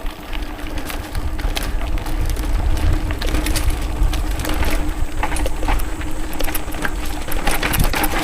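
Mountain bike riding over a dirt forest trail: tyres crunching over the ground, with a constant clatter of chain and frame knocks, under a heavy low rumble of wind and vibration on the action camera.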